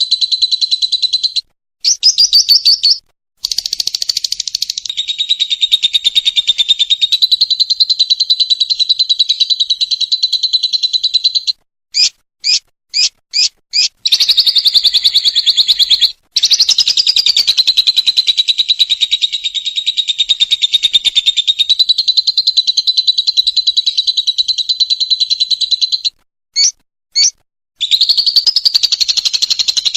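Lovebird ngekek: long unbroken runs of rapid, high chattering trill, broken by a few brief pauses. About twelve seconds in, five short separate calls come roughly two a second, and two more short calls come near the end before the trill resumes.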